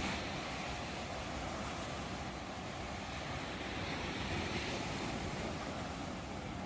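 Ocean surf: a steady wash of breaking waves, swelling slightly near the start and again a little past the middle.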